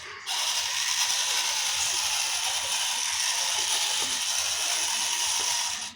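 Small electric motor and plastic gearbox of an RC toy tractor whirring steadily at a high pitch, starting just after the start and cutting off near the end.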